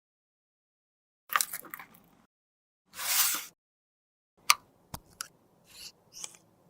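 Close-miked ASMR handling of cosmetics: a short crackling crunch, a soft swish about three seconds in, then a sharp click and light scratching.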